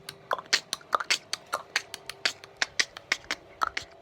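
A person making a rapid, even series of mouth clicks or pops, about five a second.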